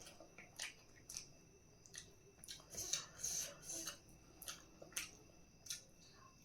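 Close-miked eating: a person chewing, with irregular short sharp clicks and smacks, busier about halfway through.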